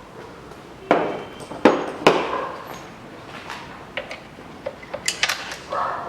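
Metal clinks and knocks of hand tools and engine parts being handled: three sharp knocks about a second in, then a quick run of lighter clicks.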